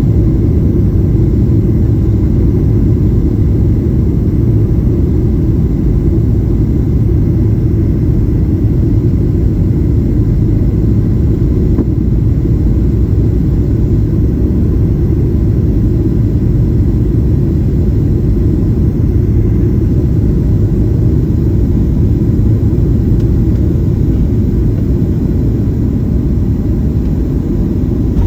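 Boeing 737-800 cabin noise: a steady low rumble of the engines and airflow heard from inside the passenger cabin.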